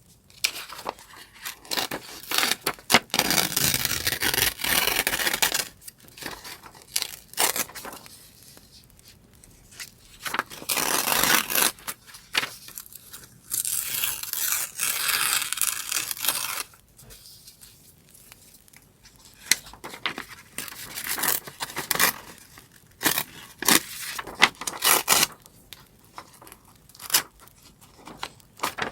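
Paper being torn by hand, in three long rips of two to three seconds each, with short rustles and crinkles of paper being handled between them.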